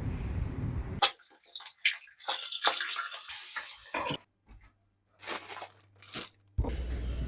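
A run of irregular clicks and crackles, set between stretches of steady low noise.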